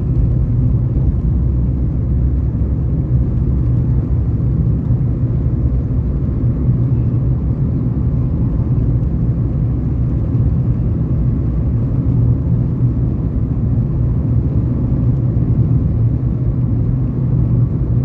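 Steady low rumble of a car travelling along a road: engine and tyre noise, even throughout.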